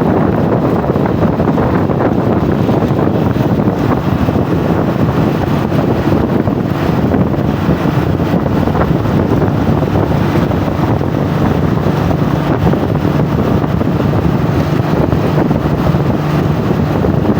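Strong wind buffeting the microphone over a steady low engine drone, continuous and unbroken.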